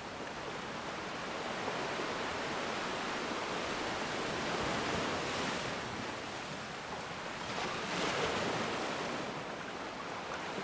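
Ocean waves breaking and washing on a shore, a steady rushing hiss that swells twice, around the middle and again near the end.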